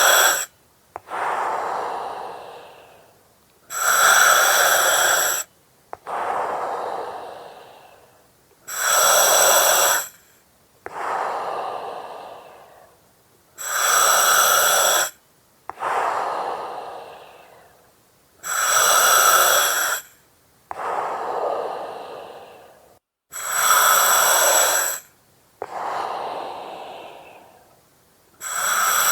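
Slow, regular breathing through an oxygen mask, about six breath cycles. Every five seconds or so there is a loud hiss of about a second and a half, followed by a softer breath that trails off.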